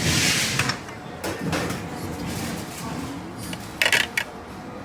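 Busy buffet dining room: background chatter with a burst of noise at the start and a few sharp clatters of dishes about four seconds in.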